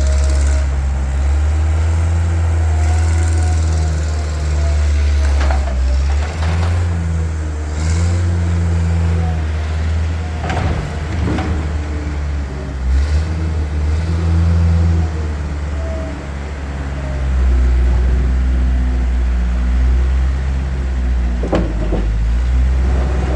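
Perkins diesel engine of a Zeppelin ZK32 skid-steer loader running, its note shifting up and down several times, with a few short sharp knocks.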